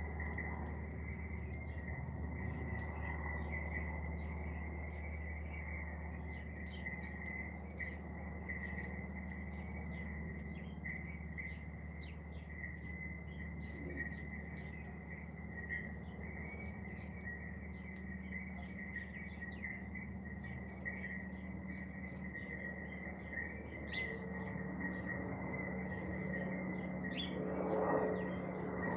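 Garden birds chirping and tweeting in many short calls over a steady high buzz and a low hum. A broad rush of noise swells near the end.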